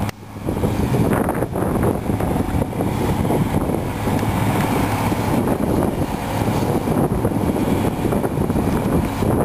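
Cat 345B hydraulic excavator working, its diesel engine running steadily under load, dipping briefly at the very start before coming straight back.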